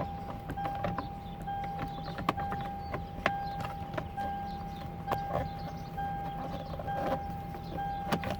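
Plastic steering column cover being handled and fitted, with scattered clicks and knocks, over a steady high-pitched tone that breaks off briefly every second or so.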